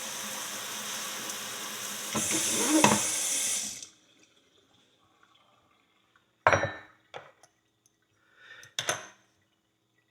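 Hot water running from a tap, rinsing loosened dirt out of a horseshoe. The stream gets louder about two seconds in and is shut off just before four seconds, followed by a few short knocks.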